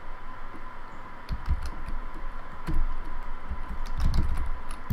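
Key presses on a Logitech K360 keyboard, irregular clicks and soft thuds as it is typed on. The keyboard has sticking keys, with the N key also registering as 3.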